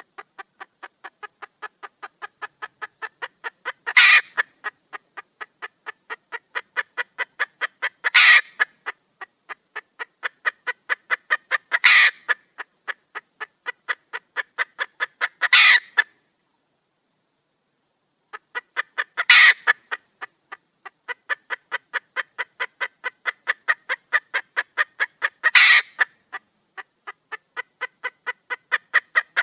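Red junglefowl hen cackling: runs of quick clucks, about six a second, grow louder and end in a loud squawk, over and over about every four seconds. There is a short pause a little past halfway. It is presented as a hen calling for a mate.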